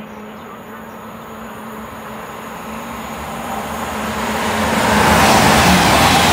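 Great Western Railway Intercity Express Train approaching and passing at speed, its rush growing steadily louder for about five seconds until the coaches sweep past close by.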